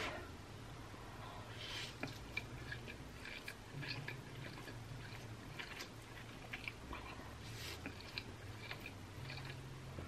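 A woman chewing big mouthfuls of stir-fried yakisoba noodles close to the microphone: many small wet mouth clicks and smacks, with two short breathy slurps as more noodles are drawn in.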